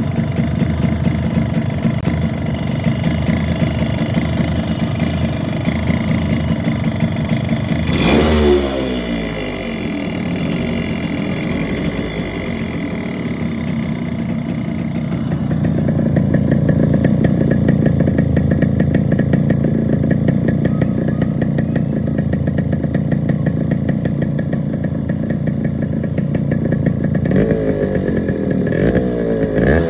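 Yamaha RX135's two-stroke single-cylinder engine running, with a quick rev blip about eight seconds in and two more near the end, each falling back toward idle. The engine has a knock that the uploader presents as piston knocking.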